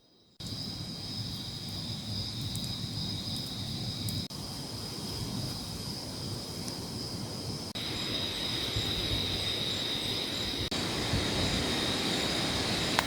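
Heavy rain falling steadily, starting abruptly about half a second in, with insects buzzing continuously behind it.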